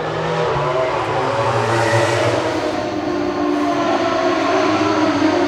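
Racing motorcycle engines running at high revs on the circuit, a steady, loud, layered engine note that shifts slowly in pitch.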